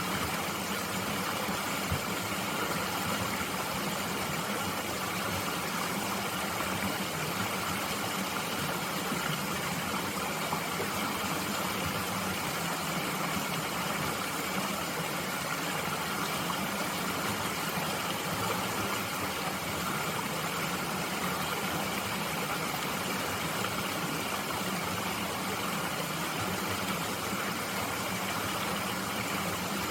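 Mountain stream flowing: a steady, unbroken sound of running water.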